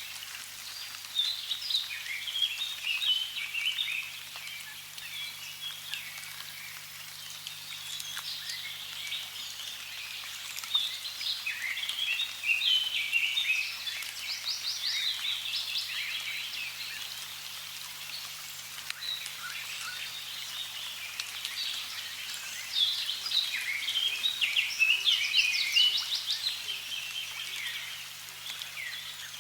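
Songbirds chirping and trilling in busy bouts, loudest about a third of the way in and again near the end, over a steady hiss of running water.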